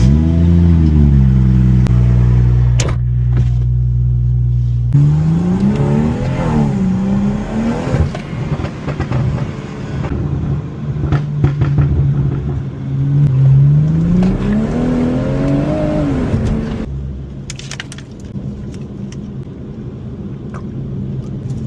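BMW M240's turbocharged straight-six starting up, the revs flaring and then settling to idle. It is then blipped a few times, given a longer rev that rises and falls back, and after that runs more quietly.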